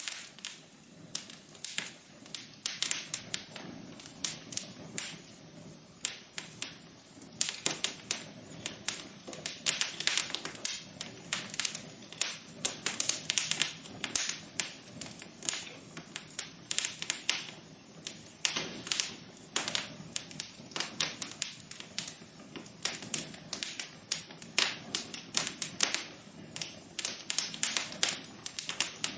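Wood fire burning in a fireplace, crackling with many irregular sharp pops and snaps over a soft steady hiss.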